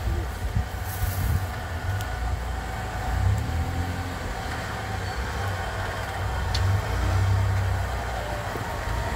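Off-road 4x4's engine running at low revs as the vehicle creeps down a steep dirt descent: a steady low rumble that swells briefly twice, about three seconds in and again near the end.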